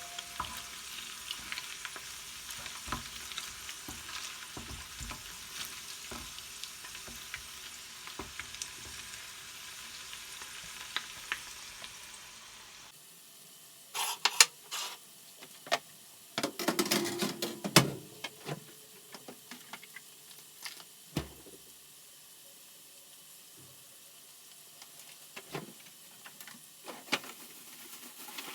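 Food sizzling and crackling as it fries in a pan. About halfway through the sizzle stops suddenly, and a scatter of light kitchen clinks and knocks follows.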